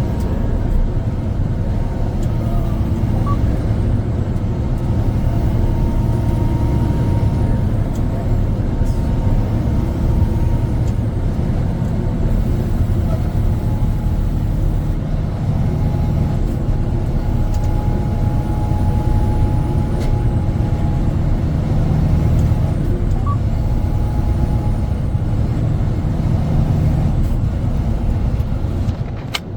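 Tractor-trailer truck driving along at a steady pace: a constant low engine and road noise.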